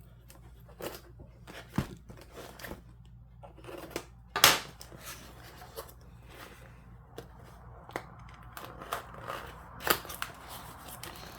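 Packaging of a diamond painting kit being cut and torn open with a knife: irregular crackling, tearing and handling clicks, with two louder sharp snaps, one about four and a half seconds in and one near the end.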